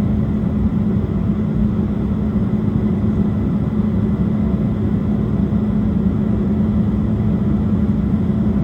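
Steady cabin drone inside a Delta Connection Embraer E175 airliner: its GE CF34 turbofan engines and airflow making a constant rushing noise with a strong low hum and a faint high whine.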